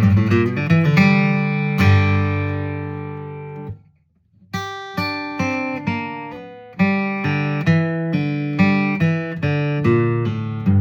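Acoustic guitar flatpicked: a quick run of single notes, then a chord left ringing about two seconds in and damped just before four seconds. After a short pause the picked line resumes as separate notes and double stops, a few to the second.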